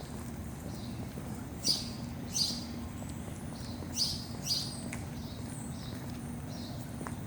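Wild birds calling: short, sharp chirps that drop in pitch, the loudest coming in two pairs a little over a second apart, with fainter chirps after them. Under them runs a steady low rumble.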